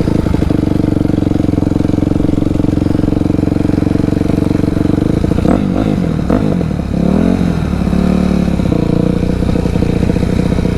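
Dirt bike engine running close by at a steady pitch, then revving up and down a few times about halfway through before settling into a steady run again.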